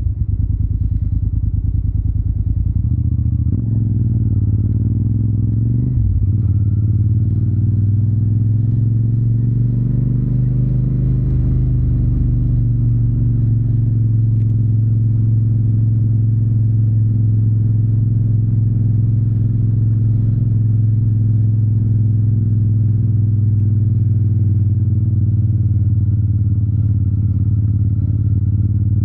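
Yamaha TDM 900's parallel-twin engine through an Akrapovic exhaust, heard while riding. It runs at low revs at first and dips sharply in revs about six seconds in, then holds a steady cruise, its pitch rising and falling gently.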